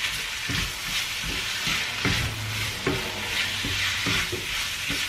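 Diced chicken, bacon and onion sizzling in oil in a wok, stirred and tossed with a wooden spoon: a steady frying hiss with irregular scrapes of the spoon against the pan.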